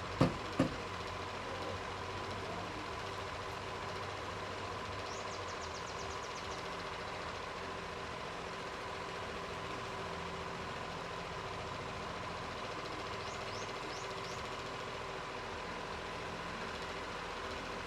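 A steady mechanical hum holding the same pitch throughout, with two sharp knocks just after the start.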